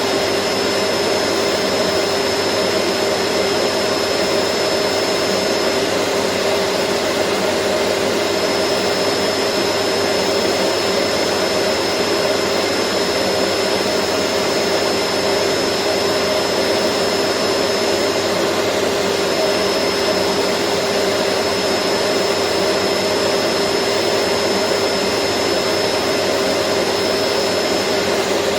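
Vacuum cleaner running steadily: an even whooshing hum with a constant whine, unchanging throughout.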